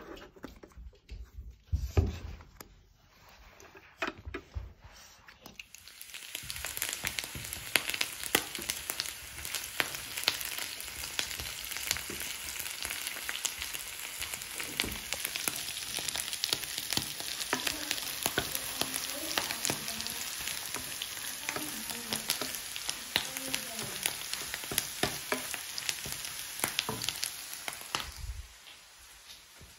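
Food sizzling and crackling in a hot pan, a dense steady hiss full of small pops that starts about six seconds in and stops abruptly near the end. A few knocks come just before it starts.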